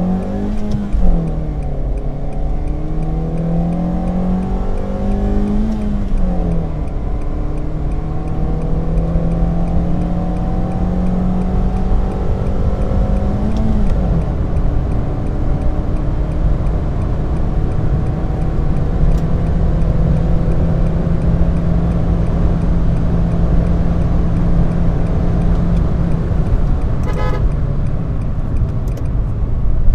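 Honda Brio Satya's 1.2-litre i-VTEC four-cylinder engine under full-throttle acceleration, heard from inside the cabin: the engine note climbs and drops back with each of three upshifts, about a second in, about six and a half seconds in and about fourteen seconds in, then runs at a nearly steady pitch at high speed. A short beep sounds near the end.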